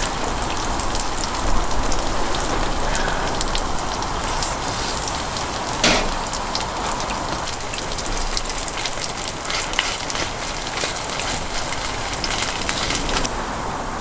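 A Korean green-onion pancake (pajeon) frying in oil in a pan: a steady sizzle dense with fine crackles. There is one sharp knock about six seconds in.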